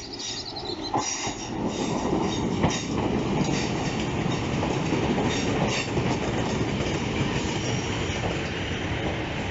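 BREL Class 150/2 diesel multiple unit running into the platform and slowing, passing close. High wheel or brake squeal and sharp clicks of the wheels over rail joints in the first few seconds, then a steady heavy rumble of wheels and underfloor engines.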